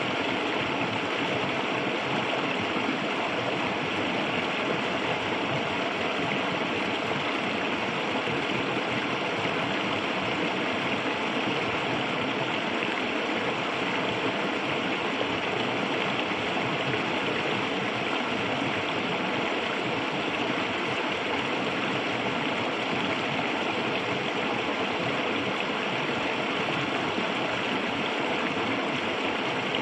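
Clear shallow river running over stones, a steady rushing and gurgling of flowing water.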